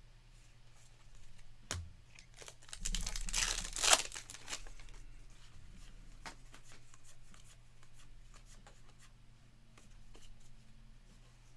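A trading card pack's wrapper torn open, with a sharp crackle and a short burst of tearing and crinkling about three to four seconds in, followed by light handling of cards.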